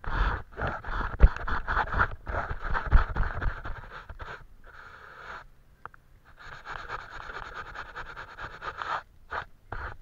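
Quick, scratchy strokes of a painting tool on paper. They come in two runs with a pause of about a second and a half between them.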